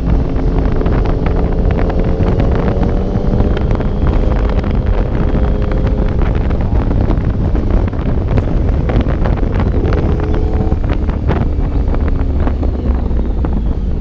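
Wind rushing over the microphone of a moving Yamaha motorcycle, with the engine's note underneath rising and falling a little.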